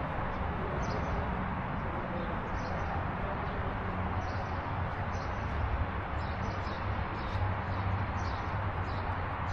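Small birds chirping: short, high, falling chirps, irregularly about one a second, over a steady low background hum.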